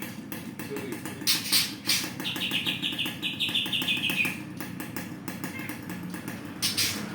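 A caged songbird singing a fast run of repeated high chirping notes, about seven a second, over a steady low hum. Two short hissing bursts, one before the song and one near the end.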